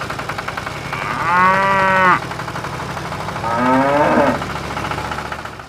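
A cow mooing twice: two long drawn-out calls a little over a second apart, the second lower and sliding down in pitch, over a steady low hum.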